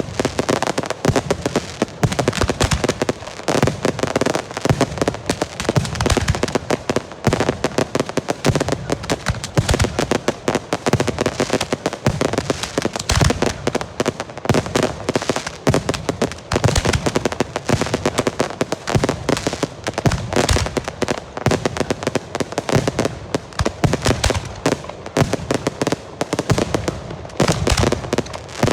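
Girândolas, bundles of Portuguese festival rockets, going off in a dense, continuous barrage of rapid bangs and cracks with no pause.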